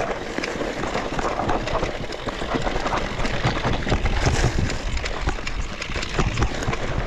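Mountain bike riding down a rough trail: tyres rumbling over the ground, with frequent clicks and rattles from the bike and a steady low rumble of wind on the microphone.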